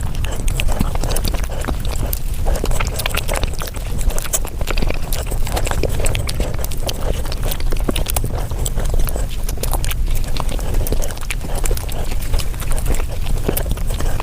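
Close-miked mukbang eating sounds of cake being chewed, played back sped up, so the mouth noises run together into a dense, rapid stream of clicks and smacks.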